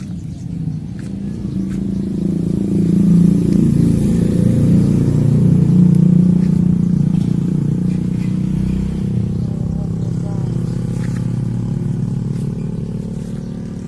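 A motor vehicle's engine running close by, its low drone growing louder over the first few seconds, holding, then slowly fading away.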